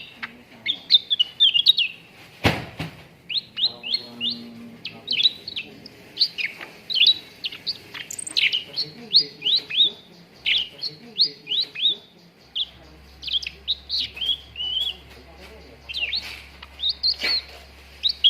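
Cucak ranting singing a fast, unbroken chatter of short, sharp chirps, used as a lure song to stir caged birds into singing. One sharp click about two and a half seconds in.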